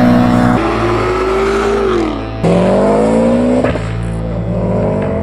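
Car engine accelerating in a few spliced clips: its pitch climbs, drops back, then climbs again. Each clip cuts off abruptly, about half a second and about two and a half seconds in.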